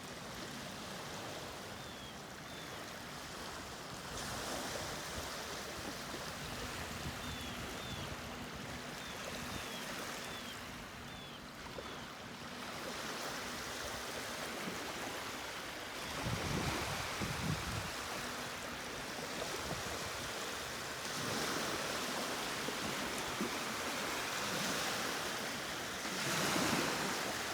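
Small waves washing onto a lake beach, a steady rushing that swells and eases. There are a few short high chirps in the first half, and some low bumps about two-thirds of the way through.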